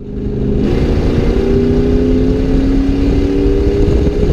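Straight-piped 5.8-litre V8 of a 1992 Ford Bronco running loud under throttle, its exhaust note rising slowly in pitch.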